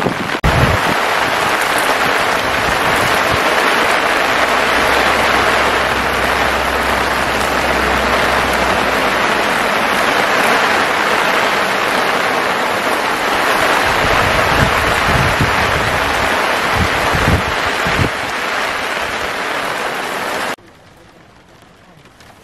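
Heavy rain pouring down in a loud, steady hiss. About twenty seconds in it cuts to much fainter rain heard from inside a car.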